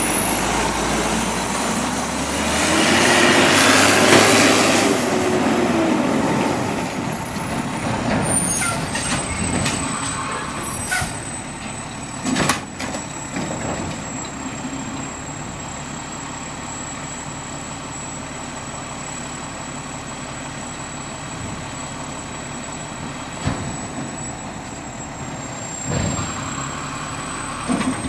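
Automated side-load garbage truck running, with a loud hiss of its air brakes about three seconds in, then quieter running with a few sharp knocks and a steady high whine.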